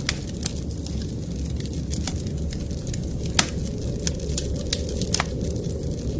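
Wood fire crackling in a fireplace, with irregular sharp pops, the loudest about three and a half and five seconds in, over a steady low rumble.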